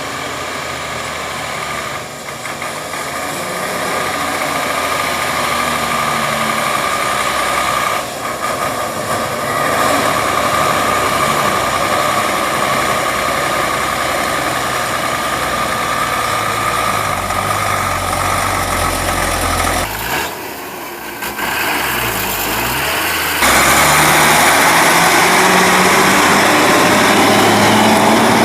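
Heavy logging truck's diesel engine running steadily, with a brief dip about twenty seconds in and a louder stretch over the last few seconds.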